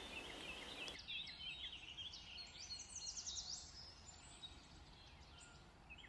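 Faint birdsong: small birds chirping and twittering in short repeated notes, with a run of higher, quicker notes about three seconds in.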